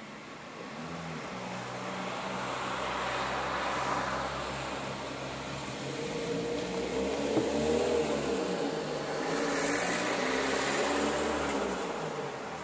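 A motor vehicle's engine running, its pitch shifting up and down, rising in level from about a second in and easing off near the end.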